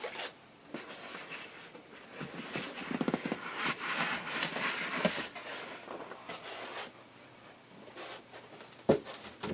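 Rustling and light clatter of packaging and loose parts being handled while the box is unpacked, busiest in the middle, with a single knock near the end.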